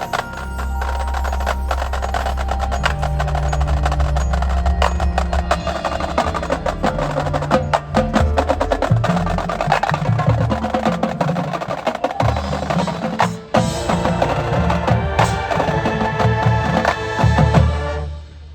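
Marching band music: many sharp percussion strikes and bell-like mallet notes over sustained low bass notes, cutting off suddenly near the end.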